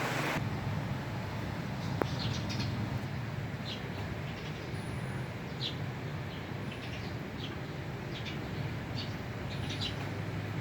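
A small bird giving short, high chirps every second or so, over a steady low hum.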